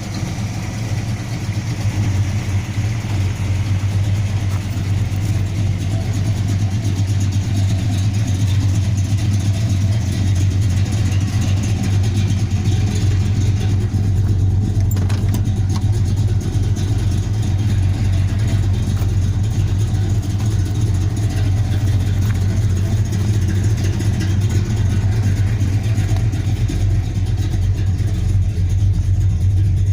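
Plymouth Road Runner's 440 cubic-inch (7.2 L) V8 engine running at a steady speed with a deep, even exhaust note and no revving.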